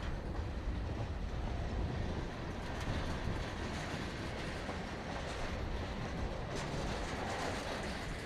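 A slow freight train of covered hoppers and centerbeam flatcars rolling past: steel wheels on the rails give a steady rumble, with occasional clicks and clanks from the passing cars.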